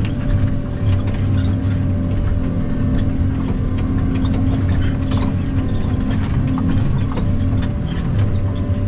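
Log skidder's diesel engine running steadily under load while skidding logs, with scattered metallic clanks and rattles.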